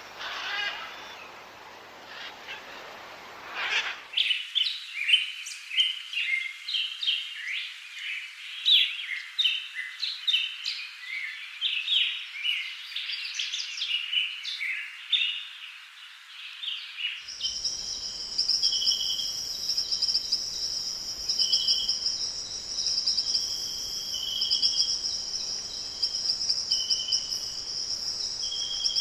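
Wild birds chirping and calling: first a few seconds of calls, then about four seconds in a busy chatter of many short chirps. About seventeen seconds in it cuts to a steady high insect trill with short whistled bird notes repeating over it.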